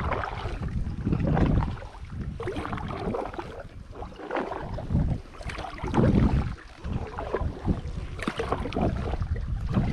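Kayak paddle strokes through water: splashing and dripping that swell in uneven surges every second or two, with low wind rumble on the microphone.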